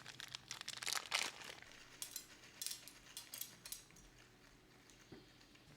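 Faint, irregular crinkling and clicking of plastic being handled, dying away about four seconds in.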